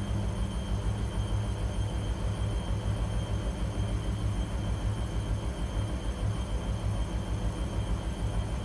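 Washing machine running: a low rumble that pulses rapidly and evenly, with a faint steady high whine over it.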